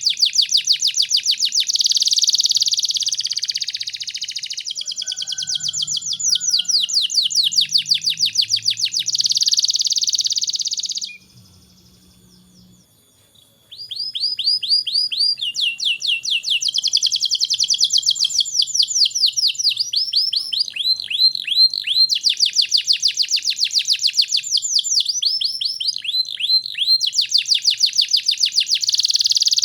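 Domestic canary singing a vigorous, continuous song of fast rolling trills and repeated chirp phrases. It breaks off for about two seconds partway through, then resumes.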